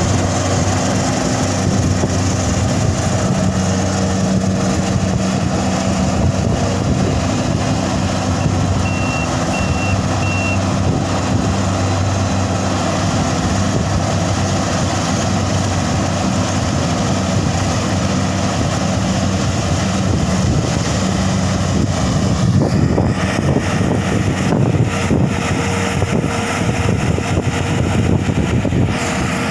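Combine harvester engine running steadily under load. Three short high beeps sound about nine to ten seconds in.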